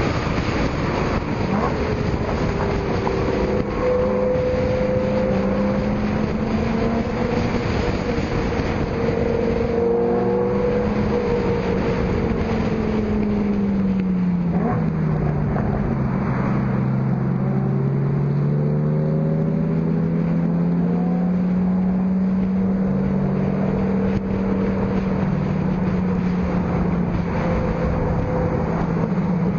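Car engine and exhaust running while driving, under steady road and wind noise. The engine pitch holds, drops about halfway through, then climbs slowly again.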